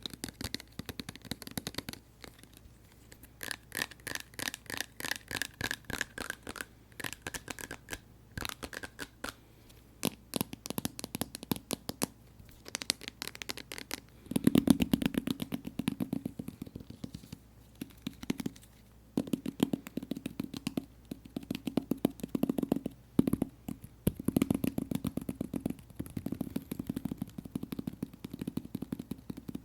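Fingertips tapping rapidly on tapioca slime, in quick runs of crisp clicky taps with short pauses between. From about halfway through, the taps turn deeper and fuller.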